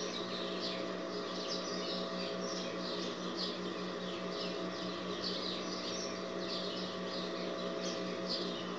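A small bird chirping over and over in short, high, falling notes, two or three a second, over a steady low electrical hum.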